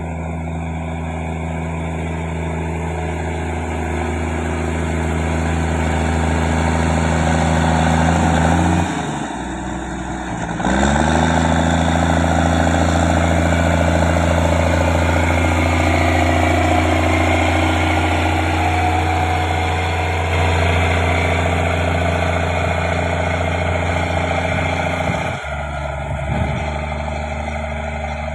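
Heavy construction machine's diesel engine running steadily. About nine seconds in, its note sags and dips for a moment before coming back up. Near the end it drops to a lower note.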